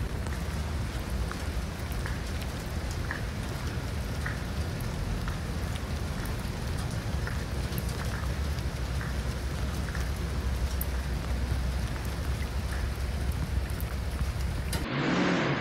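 Heavy rain falling steadily on a flooded street: an even hiss with scattered small drop ticks over a low rumble. Near the end it cuts abruptly to a louder rushing sound.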